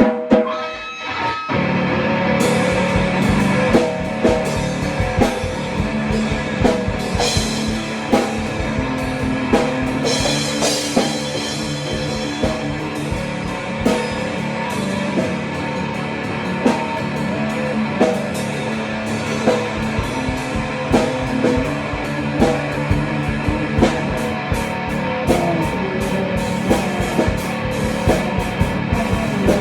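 Instrumental rock music with guitar and a drum kit; the drums and cymbals come in about two seconds in and keep a steady beat.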